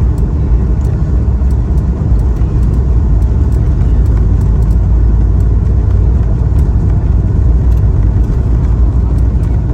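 Cabin noise of an Airbus A220-300 with Pratt & Whitney PW1521G geared turbofan engines running: a loud, steady low rumble heard from inside the cabin.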